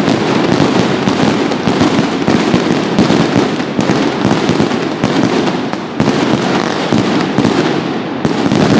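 Mascletà firecrackers exploding in a dense, unbroken barrage of loud bangs that overlap too fast to count, with a brief dip about six seconds in.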